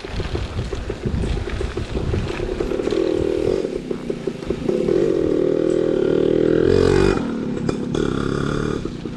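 A small motorcycle engine running close by, growing louder over several seconds with a short rush at its loudest about seven seconds in, then falling away.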